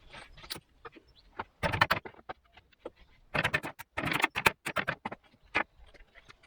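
Hand work on an old wooden frame being cleaned up: scattered sharp clicks and knocks, with two louder runs of quick scraping strokes, one about a second and a half in and a longer one around three and a half to four and a half seconds in.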